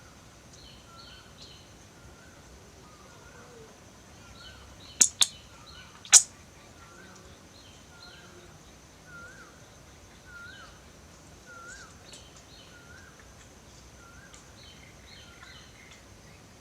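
A bird calling a short rising-and-falling chirp over and over, about one and a half a second, with other higher chirps scattered around it and a thin steady high tone behind. Three sharp clicks stand out, two close together about five seconds in and one a second later, louder than the calls.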